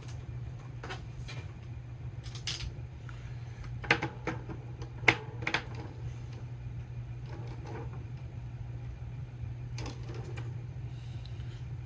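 Scattered small clicks and taps of craft supplies being handled and set down on a tabletop, the sharpest about five seconds in, over a steady low hum.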